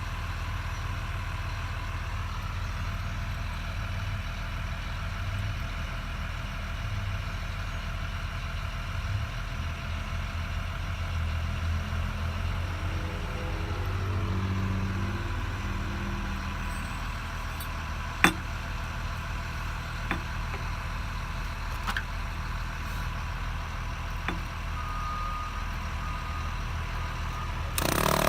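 An engine idling steadily in a low hum, with a few sharp clicks along the way. Near the end a loud motor starts and winds up in pitch.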